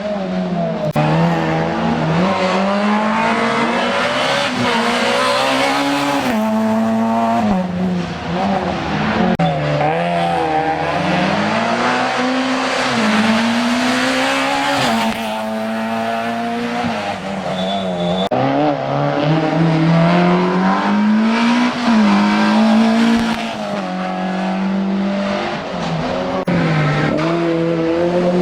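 A racing car's engine running hard on a slalom course, revving up and dropping back again and again, every couple of seconds, as the driver accelerates and brakes between the gates.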